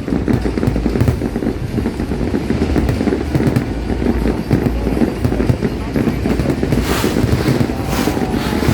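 New Year fireworks bursting without pause: a dense rumble of booms and crackle, with a couple of sharper bangs near the end, over the voices of a large crowd.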